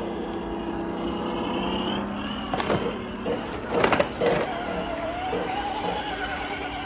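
Scale RC crawler truck's electric motor and gears whining as it drives, the pitch rising and wavering with the throttle, with a few sharp knocks around the middle.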